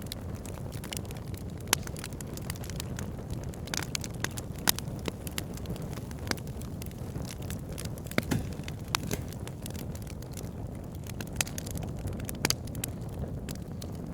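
Wood fire crackling, with irregular sharp pops and snaps over a steady low rush of flames.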